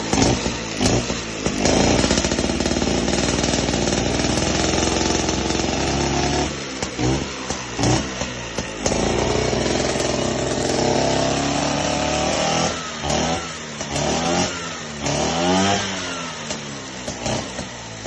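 Freshly rebuilt Vespa largeframe single-cylinder two-stroke engine running and being revved. It holds steady revs for several seconds at a time, with a run of quick throttle blips in the middle and again in the second half, and settles lower near the end.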